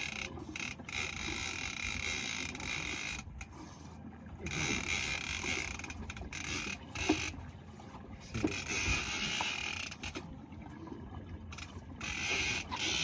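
Creaking and mechanical noise from a fishing rod and reel under load while a shark is fought, coming in hissy swells with brief breaks, over the boat's water noise.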